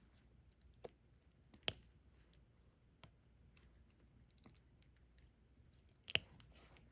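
A few sharp, isolated clicks and taps of a diamond-painting stylus setting resin drills onto the canvas, the loudest near two seconds in and just after six seconds, over near silence.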